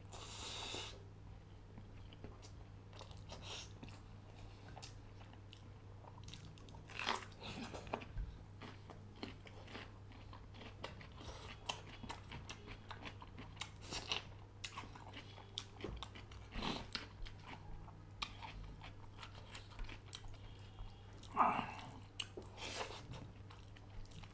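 Close-up eating sounds of a person chewing fish curry and rice eaten by hand, with scattered soft mouth clicks and smacks and a few louder ones, over a faint steady low hum.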